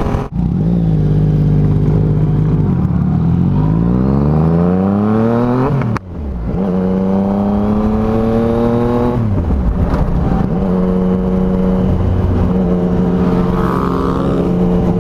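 Yamaha MT-09's inline-three engine through a loud aftermarket exhaust while riding. It holds steady, then revs up hard for a few seconds and breaks off sharply for a gear change about six seconds in. It then holds steady again, easing off briefly around nine to ten seconds.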